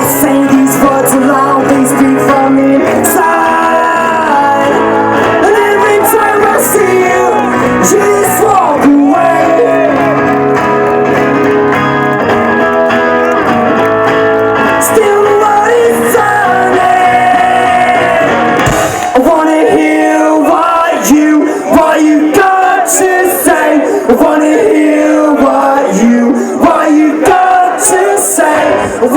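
A rock band playing live, with singing over the instruments, recorded loud on a phone's microphone. The bass drops away about two-thirds of the way through, leaving the higher instruments and voice.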